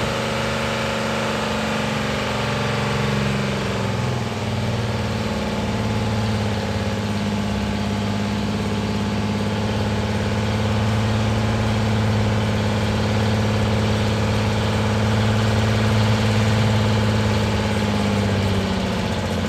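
Engine of a 1967 Pontiac Le Mans converted to a GTO tribute, idling steadily, with its pitch dipping briefly about four seconds in.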